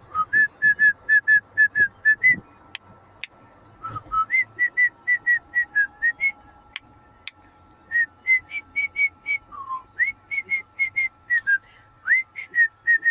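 Pet cockatiel whistling: quick runs of short, clear whistled notes, about four or five a second, in several phrases with brief pauses between them.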